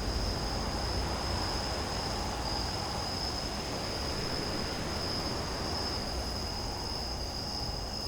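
Crickets chirring in a steady high-pitched band, over a low, even background rumble.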